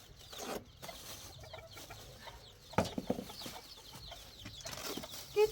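Chickens clucking in short, scattered calls, with a louder sharp call just before the end.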